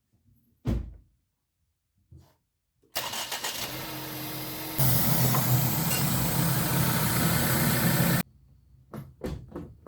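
A thump, then a 2013 Ford Escape's engine cranking for about two seconds, catching and running steadily, louder, for about three seconds before the sound cuts off suddenly. A few clicks near the end.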